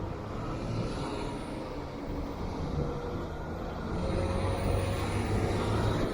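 Honda CBR650R inline-four engine running steadily under way, with road and wind rush, growing a little louder about four seconds in.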